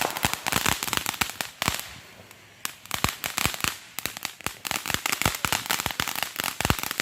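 Consumer grand-finale firework going off: a rapid run of sharp pops and crackles, with a short lull about two seconds in before the popping starts again.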